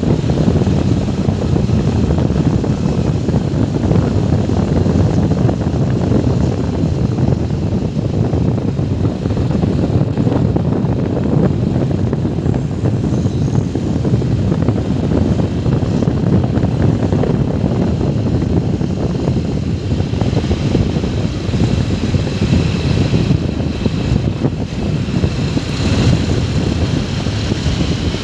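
Motorcycle riding along at steady speed, its engine sound buried under loud wind rumble on the microphone.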